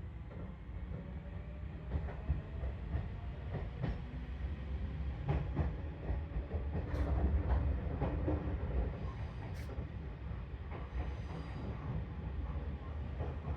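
Seibu electric train heard from on board as it pulls out of a turnback siding: a steady low running rumble, with wheels clicking over rail joints and points, the clicks thickest around the middle.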